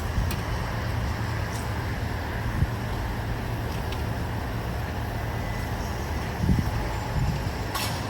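Steady low outdoor rumble, strongest in the bass, with a few brief low bumps about six and a half seconds in and faint high ticks.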